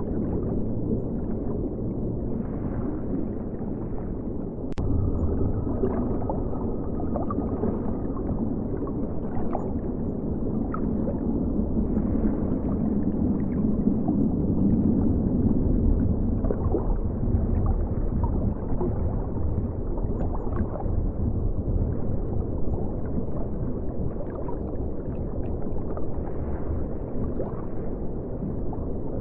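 River water flowing, heard as a steady, low, muffled rush with gurgling. A single sharp click comes about five seconds in.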